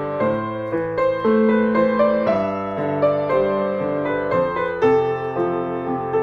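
Background piano music: a gentle melody of sustained notes over a steady flow of chords.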